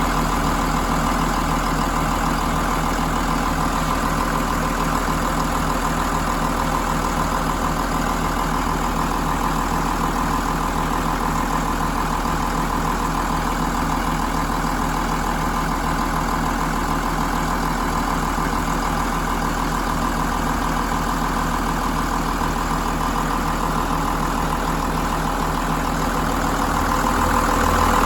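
John Deere 6068 6.8-litre inline six-cylinder diesel engine idling steadily, getting a little louder near the end.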